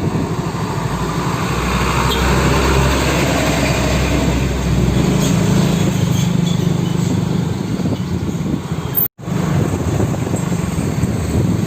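Steady low rumble of idling truck diesel engines and road traffic. The sound drops out for a split second about nine seconds in.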